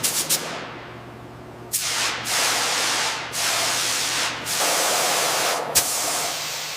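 Hissing spray in three long bursts, each starting abruptly, with a sharp click near the end.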